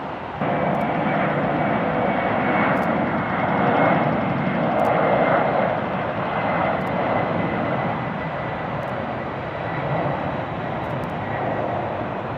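Jet airliner engines running, a steady loud rush with a thin high whine over it. The sound jumps up suddenly just after the start and stays strong throughout.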